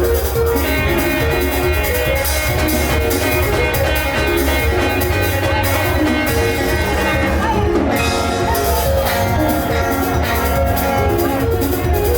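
Live band music, instrumental, with a heavy steady bass line under a melody of short stepping notes. A sustained high chord holds from about a second in until about eight seconds in.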